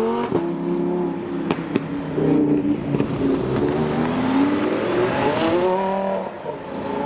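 Performance car engines accelerating away, the engine note climbing, dropping at a gear change and climbing again, with two sharp cracks about a second and a half in.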